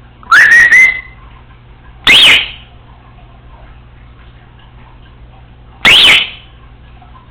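Congo African grey parrot whistling: three loud calls. The first, about half a second in, rises and levels off with a few sharp clicks. Two shorter whistles that rise and fall come about two seconds in and near the end.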